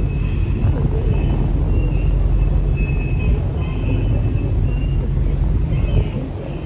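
Tourist river boat under way: a steady low rumble of the engine and moving water and air, with faint short high-pitched sounds now and then.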